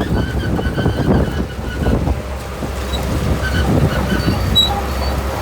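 Shantui crawler bulldozer's diesel engine running under load, a steady low drone, with its steel tracks clanking and letting out short high squeaks.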